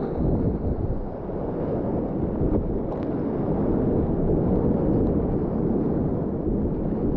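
Steady whitewater noise of the river, muffled and low-heavy, with wind buffeting the camera microphone.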